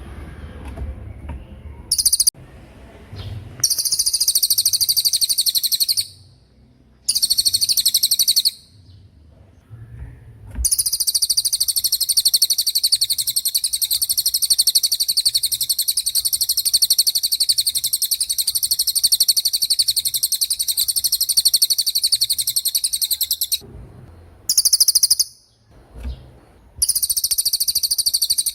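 Cililin bird singing its rapid 'tembakan' song: very high-pitched, fast rattling trills in several short bursts, then one long unbroken run of about thirteen seconds, then more bursts after short pauses.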